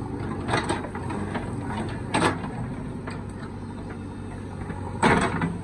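Diesel engine of heavy machinery running steadily, with sharp metallic knocks and clatter about half a second in, about two seconds in, and a louder burst of clanking near the end.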